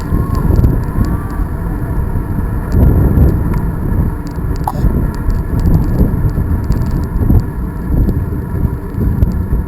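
Wind buffeting the microphone of a camera riding along on a moving bicycle: a loud, gusting rumble with scattered small clicks and rattles.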